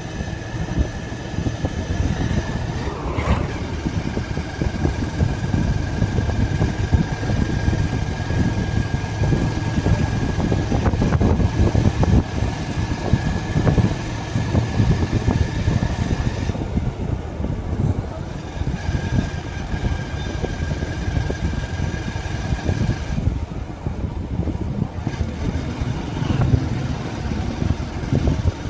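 Motorcycle running under way, with a rough rumble throughout and a steady high whine that drops out twice in the second half.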